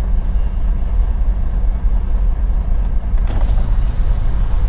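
Semi truck's diesel engine running steadily, a low even rumble heard from inside the cab, with a short click about three seconds in.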